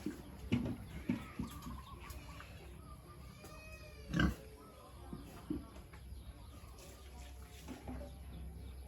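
Pigs grunting: a string of short, separate grunts, the loudest a little past four seconds in, with thin higher-pitched calls in between.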